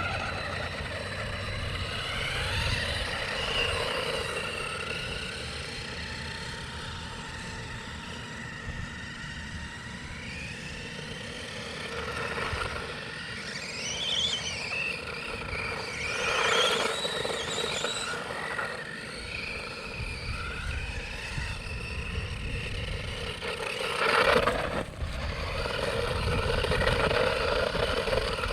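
1:12 scale MOPIDICK RC monster truck driving on cement, its small electric motor whining up and down in pitch as it speeds up and slows. Several short bursts of tyre scrub mark hard turns or skids, the loudest about 24 seconds in.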